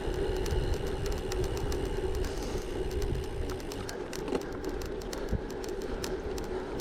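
Gravel bike tyres rolling over a gravel track, with wind rumble on the microphone, a steady hum and a scatter of small irregular clicks from stones under the tyres.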